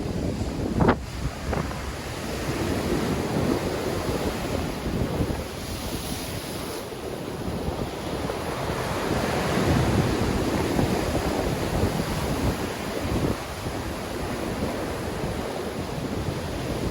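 Black Sea surf in a strong wind: waves rolling in and breaking, swelling and easing in slow surges, with wind buffeting the microphone. There is one sharp thump about a second in.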